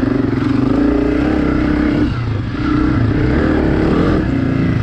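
Engine of an off-road vehicle being ridden on a trail, running under throttle, its pitch rising and falling. It eases off briefly about two seconds in and again near the end.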